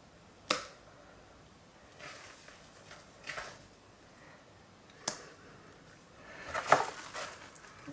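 A few sharp clicks and knocks of kitchen utensils and containers being handled. One click comes about half a second in and another about five seconds in, with a louder cluster of knocks near the end.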